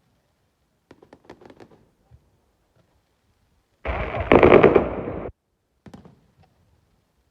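Fireworks exploding: a faint scatter of crackles about a second in, then a loud burst of rapid-fire bangs and crackles about four seconds in that lasts about a second and a half and cuts off suddenly.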